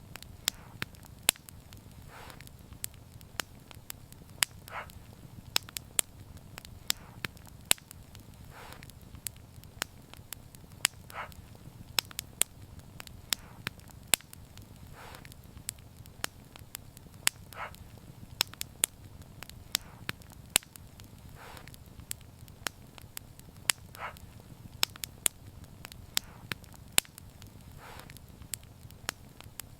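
Wood fire crackling, with sharp irregular pops and snaps over a low steady rumble of flames. A softer puff recurs about every two seconds.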